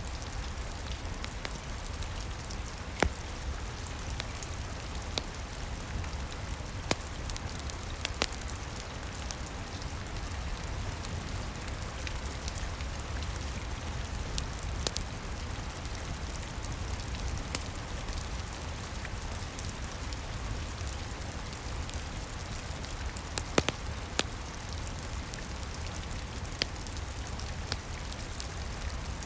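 Steady rain with a low rumble underneath, and scattered sharp pops from a crackling wood fire, several seconds apart.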